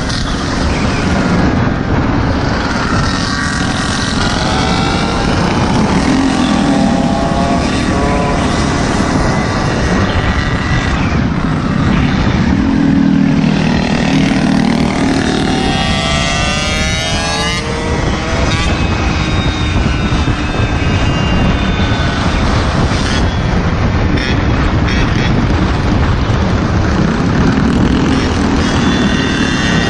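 Small engines of mini bikes and Goped scooters on a group ride, revving up and down with pitch rising and falling, at times several engines at once, over a steady low rumble.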